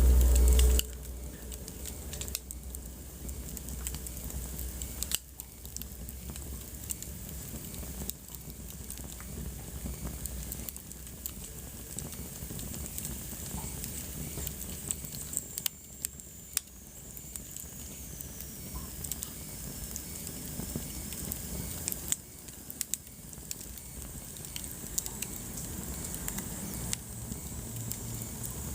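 Wood fire burning in a fireplace: a steady low hiss of flame with frequent sharp crackles and pops from the burning logs. A brief, louder low rumble sounds in the first second.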